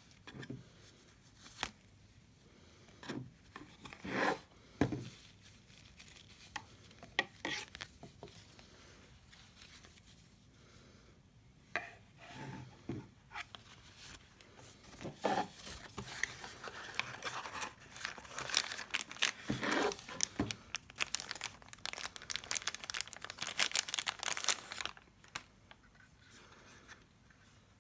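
Packaging being unwrapped by hand: plastic crinkling and tearing with scattered knocks and clicks, busiest and most continuous in the second half.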